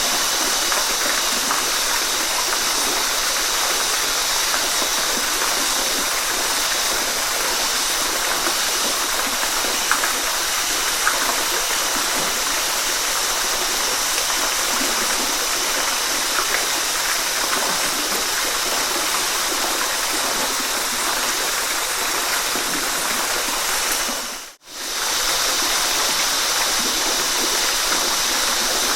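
Waterfall rushing steadily, an even hiss of falling water with a faint gurgle. The sound dips out for an instant near the end, then resumes unchanged.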